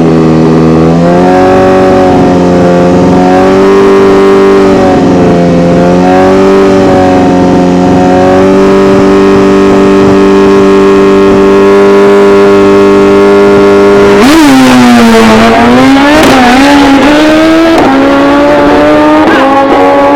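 Racing motorcycle engine revved hard and held at high revs. About fourteen seconds in there is a sudden burst of noise, and the pitch drops sharply and then climbs again as the bike launches and accelerates away.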